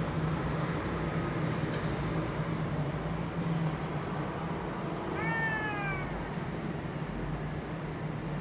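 A domestic cat meowing once, about five seconds in: a single call that starts high and falls, over a steady low hum.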